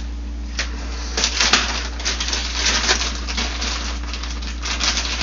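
Plastic zip-lock bag crinkling and rustling as it is opened and handled to take out a new washer drum seal, in irregular crackly bursts that are densest a second or two in and again near the end.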